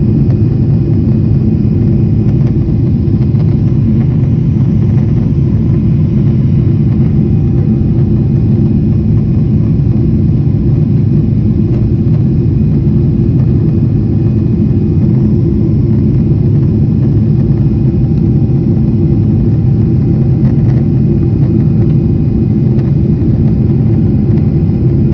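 Loud, steady low rumble that holds unchanged throughout, with no rise or fall.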